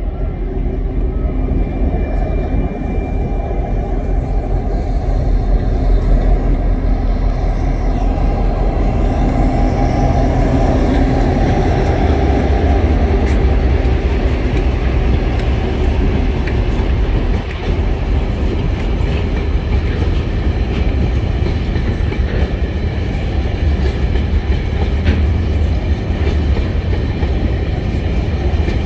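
Two TasRail diesel locomotives (2054 leading, 2051 behind) run past close by, their engines a heavy, steady drone. Empty coal hopper wagons follow, rolling past with their wheels clicking over the rail joints.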